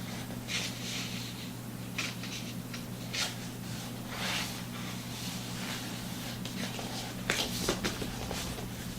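Soft, irregular rustling and small handling noises, such as a book's pages and bedding being moved, with a cluster of sharper rustles near the end, over a steady low hum.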